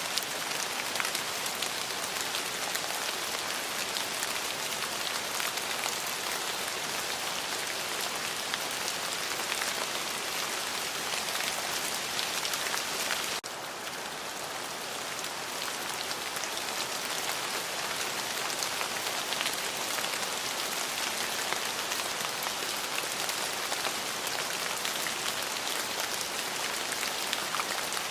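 Steady rain falling on hard surfaces, a dense hiss and patter of drops. About halfway through it dips abruptly and comes back a little softer for a few seconds before returning to full strength.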